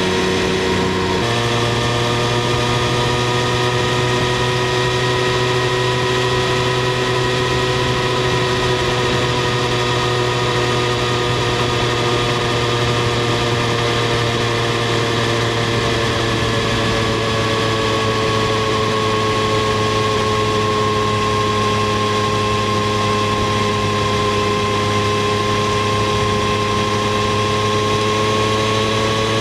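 Triumph Street Triple 765 R's inline three-cylinder engine and exhaust under a motorcycle seat, running at steady revs while cruising; the note changes about a second in, then holds level, easing slightly lower in the second half, with a steady rush of wind and road noise underneath.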